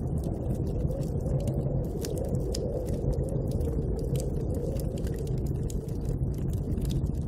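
Bonfire crackling with many small sharp pops over a steady low rush of snowstorm wind.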